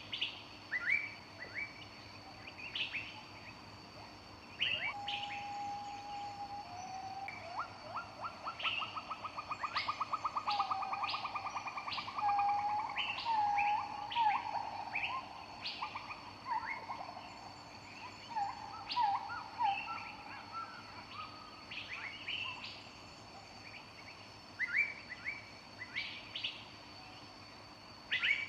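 Several wild birds singing and calling: short high chirps keep coming throughout, with lower whistled notes and a fast trill in the middle stretch.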